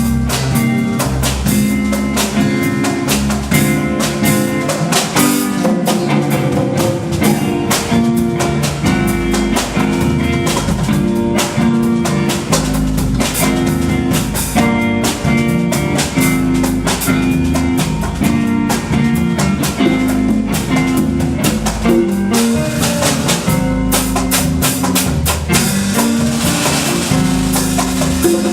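Instrumental band music: a drum kit keeps up a dense, steady beat under guitar and sustained low notes.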